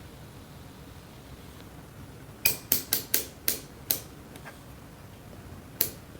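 A quick run of six sharp clicks about two and a half seconds in, then one more near the end, over a steady low background hum.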